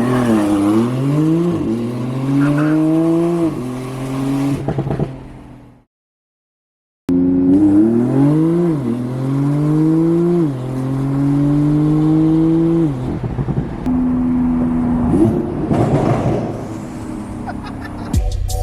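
Loud Porsche 911 Turbo S with a custom exhaust accelerating hard, its twin-turbo flat-six note climbing and dropping back at each quick upshift. This comes in two runs split by a brief silence. Music with a beat comes in near the end.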